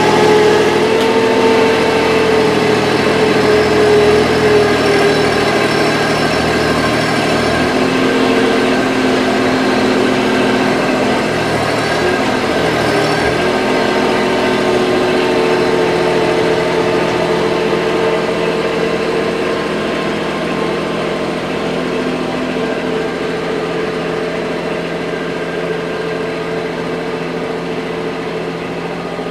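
A motor vehicle's engine running steadily, its pitch shifting now and then.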